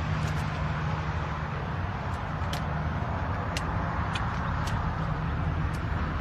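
Steady low rumble of motor vehicles with a haze of street noise, and a few faint sharp ticks scattered through it.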